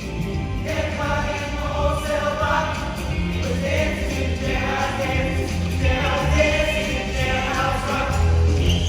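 Show choir singing a rock number in full voice, held sung notes in phrases over an instrumental backing with a steady bass beat.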